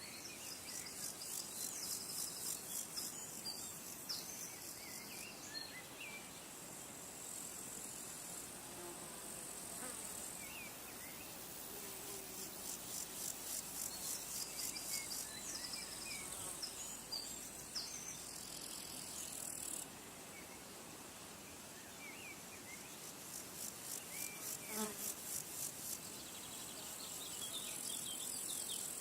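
Insects trilling in long runs of rapid, even pulses that come and go every few seconds, over a steady high hiss, with faint scattered bird chirps.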